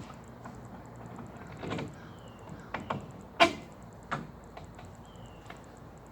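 Scattered knocks and clunks of things being handled. The loudest is one sharp knock about three and a half seconds in, and two short, high, falling chirps come about two and five seconds in.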